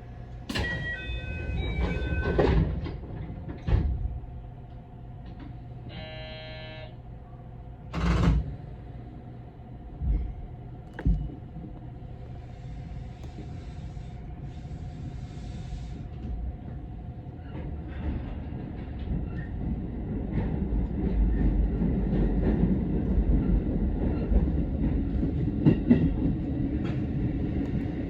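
Commuter train at a station: a short stepped electronic chime at the start and a brief buzzer tone about six seconds in, then a few sharp thuds. From about eighteen seconds the train pulls away with a low rumble that grows steadily louder as it gathers speed.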